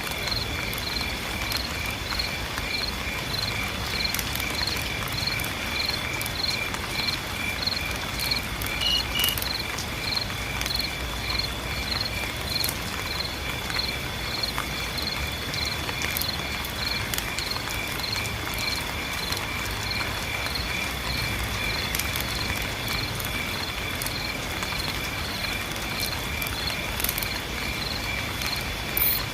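Steady rain hiss with crickets chirping in an even rhythm, about two to three chirps a second, over a constant high-pitched tone.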